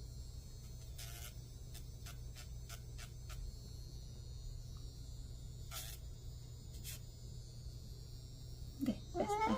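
Baby umbrella cockatoo making short hissy squawks and clicks, then a louder wavering call near the end, over a steady low electrical hum.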